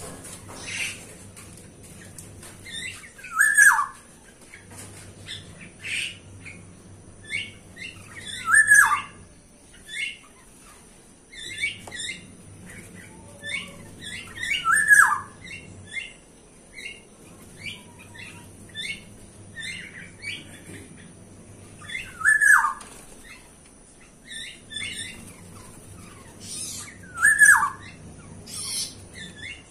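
Several birds calling: a loud squawk that slides downward in pitch comes back about every five to seven seconds, with scattered short chirps from other birds in between.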